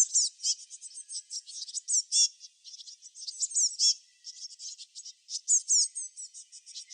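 Small songbirds chirping: a rapid stream of high-pitched chirps and quick sliding notes, with a short lull about four seconds in.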